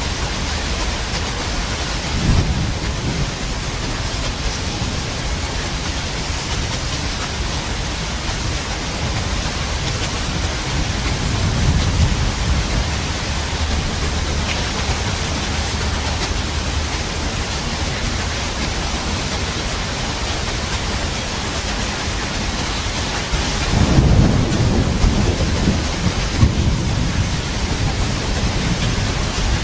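Steady heavy rain with rolling thunder: a brief low rumble about two seconds in, another near twelve seconds, and a longer, louder roll of thunder starting about two thirds of the way through.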